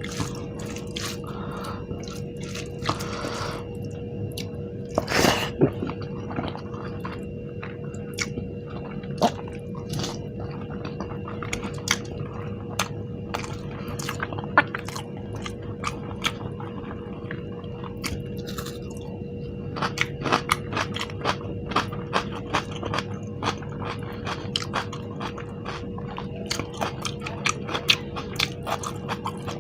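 Close-miked chewing of food: a steady run of wet mouth clicks and smacks with some crunching, over a steady faint hum.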